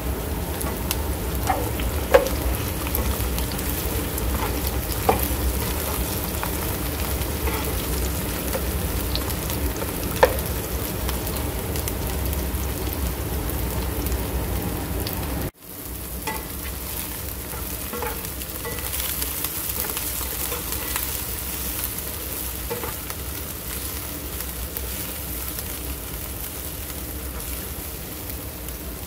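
Diced eggplant and onion sizzling in a frying pan, a steady hiss with three sharp knocks in the first ten seconds. The sizzle breaks off for an instant about halfway, then goes on a little quieter.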